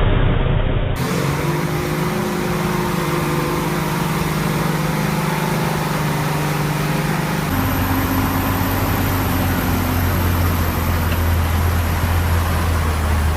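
Heavy military truck's diesel engine running steadily under load. Its pitch and tone jump abruptly about a second in and again about halfway through, where clips are cut together.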